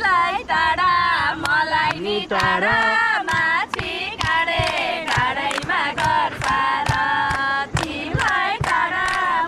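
Several voices singing a Nepali song together, unaccompanied, with frequent sharp knocks or claps scattered through.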